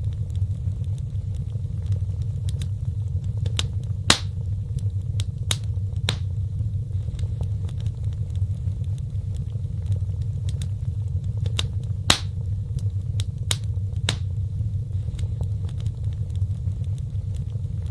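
Fireplace fire crackling, with sharp pops at irregular intervals over a steady low rumble of the flames. The loudest pops come about 4 and 12 seconds in.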